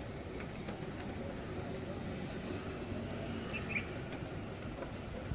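Steady storm ambience of wind and rain with a low rumble, a few faint ticks, and a brief high chirp a little past the middle.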